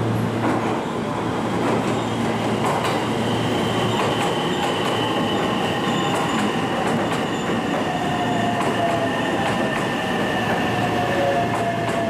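A train moving through the station: a steady rumble of wheels on rail with scattered clicks, and thin high tones that slowly fall in pitch.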